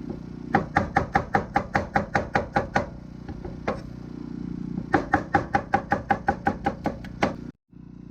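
Bowie knife chopping celery and bell pepper on a cutting board: two runs of quick, even chops, about six a second, each lasting a couple of seconds.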